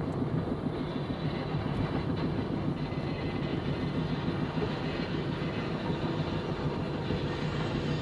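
Steady rumbling road noise heard from inside a moving car, with a dense, even rattle running through it.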